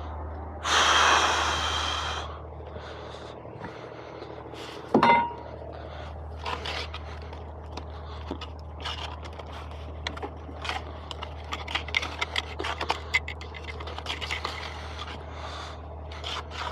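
A short loud scraping rush about a second in, a sharp knock near five seconds, then a run of light clicks and taps, all over a steady low hum.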